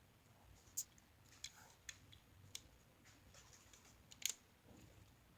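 A few small, sharp plastic clicks of Lego bricks being handled and pressed together, about five of them spread over a few seconds, the loudest near the end, against near silence.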